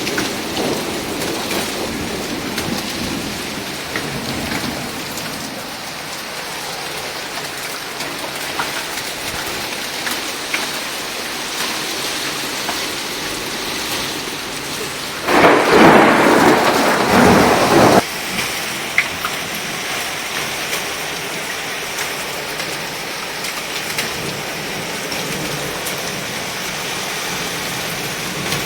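Heavy downpour rain falling and splashing on surfaces, steady throughout. About halfway through, a much louder burst of noise lasts about three seconds and cuts off suddenly.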